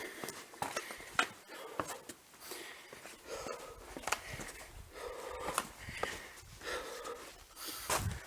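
A hiker breathing hard while walking, a breath about every second, with sharp footsteps on stones and gravel.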